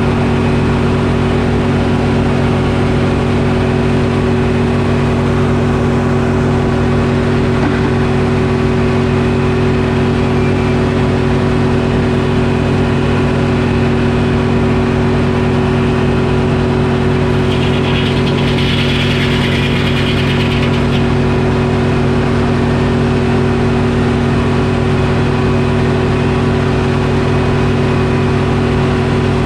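Detroit Diesel engine running steadily to power a Frick sawmill, with a brief higher hiss over it about two-thirds of the way through.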